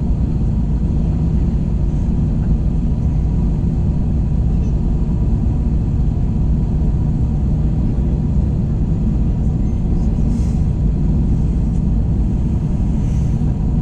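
Steady rumble of an Airbus A321 cabin in flight: engine and airflow noise, even and unbroken, with a few faint steady hums on top.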